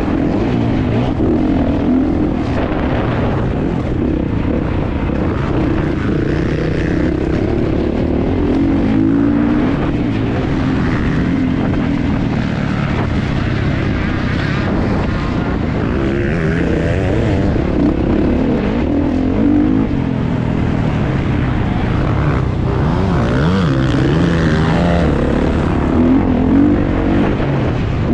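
Kawasaki KX450 motocross bike's four-stroke single-cylinder engine running hard and loud, its revs rising and falling continually as the throttle is opened and closed.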